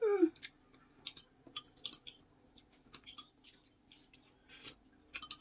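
A person eating noodle soup: scattered short, quiet chewing and mouth noises. A brief vocal sound with a falling pitch comes at the very start.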